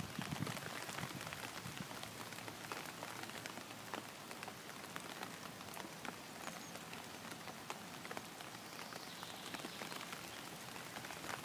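Steady rain falling on a pond's surface: a faint, even hiss made of many small drop ticks.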